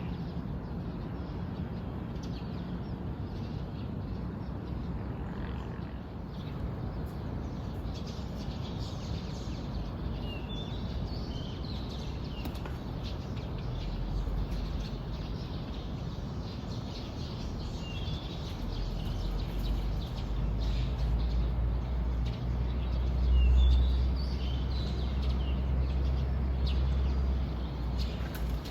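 Small birds chirping in scattered clusters of short, high calls. A deep low rumble builds partway through and becomes the loudest sound in the second half.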